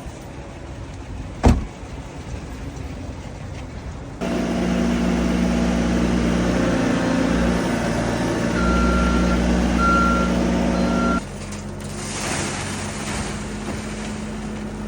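A vehicle engine running steadily for about seven seconds, with three short electronic beeps near the end, then cutting out to a low hum. A sharp click comes about a second and a half in.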